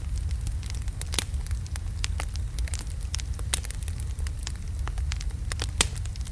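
Wood logs burning in a fireplace, crackling with irregular sharp pops over a steady low rumble of the flames; a few pops stand out louder, one near the end.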